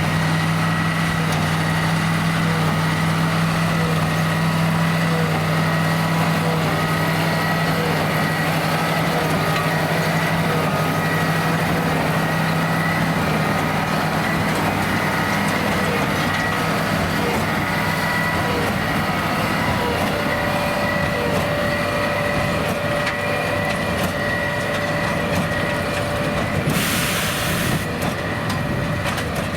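John Deere 8330 tractor's six-cylinder diesel running steadily under load while it drives a Krone BigPack square baler, with a steady high whine and a regular light ticking from the baler. The engine's deep hum drops back about halfway through, and a short hiss comes near the end.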